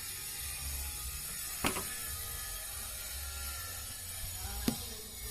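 Screwdriver working the screw out of a refrigerator's light cover: mechanical turning over a steady low hum, with two sharp clicks about three seconds apart.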